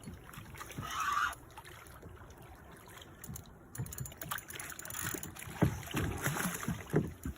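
Water splashing and sloshing around a kayak with irregular knocks on the hull, strongest in the last few seconds, and wind on the microphone.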